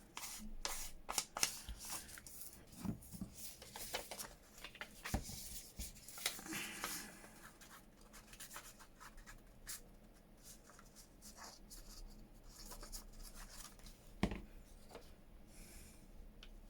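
Hands handling paper and craft bits on a desk: irregular rustling, light taps and small clicks, busier in the first half, with one sharper knock about fourteen seconds in.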